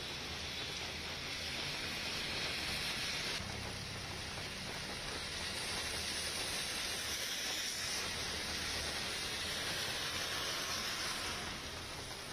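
Heavy rain falling in a steady hiss, with a low rumble underneath; the sound changes abruptly about three seconds in.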